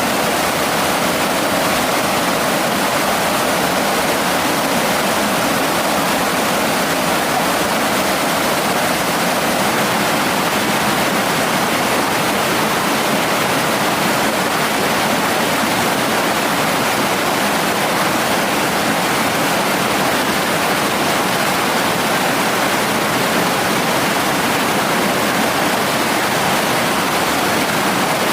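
Mountain stream water rushing over rocks, a steady, unbroken loud rush with no change.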